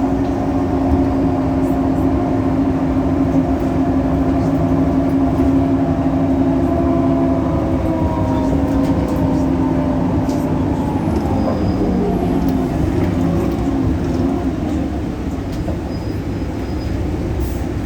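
Solaris Urbino 18 articulated bus running, its DAF Paccar PR265 diesel engine and ZF Ecolife automatic transmission giving a steady drone with the engine's loud belt noise. A higher whine falls in pitch in the middle, and the sound eases a little near the end.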